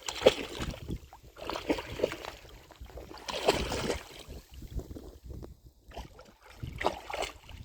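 Water washing and splashing in irregular surges, with wind noise on the microphone.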